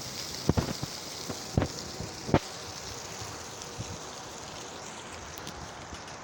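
Strong, gusty wind blowing, a steady rushing hiss that eases off near the end. A few sharp knocks come within the first two and a half seconds.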